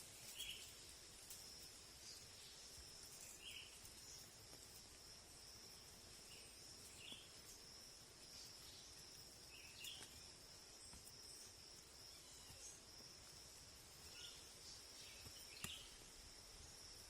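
Faint outdoor ambience: a steady high-pitched insect drone, typical of crickets or cicadas, with short chirps every few seconds and a single sharp click near the end.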